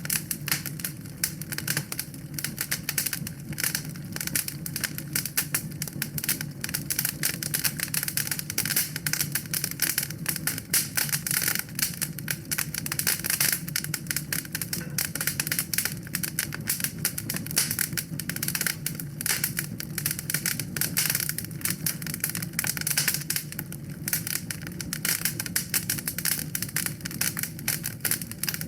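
Wood fire burning in a fireplace: a dense, irregular run of crackles and pops over a low steady rumble of flame.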